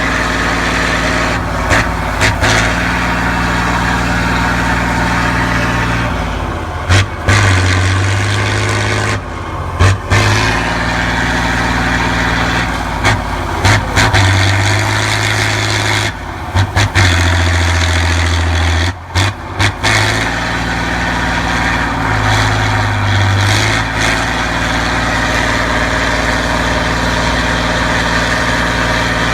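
Competition truck's engine working hard, its revs rising and dropping back in steps every few seconds, with a few short knocks and breaks in the sound.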